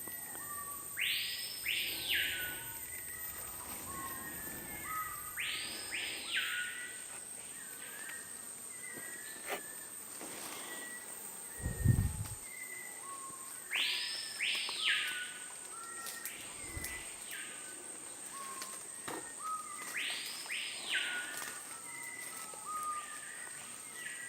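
Rainforest ambience: a bird gives a loud call that rises and falls, repeated four times a few seconds apart, with softer chirps from other birds in between, over a steady high-pitched insect buzz. A dull thump about halfway is the loudest sound.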